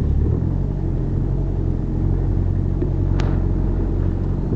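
4x4 engine running steadily under way off-road, a low rumble heard from inside the cabin, with a single sharp knock about three seconds in.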